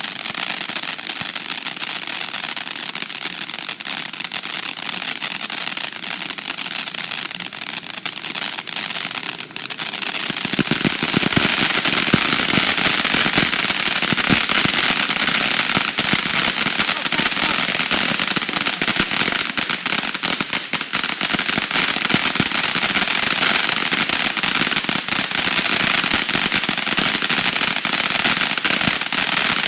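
Consumer firework going off with a steady hiss and dense crackling. About ten seconds in it grows louder and the crackling thickens, and it cuts off suddenly at the very end.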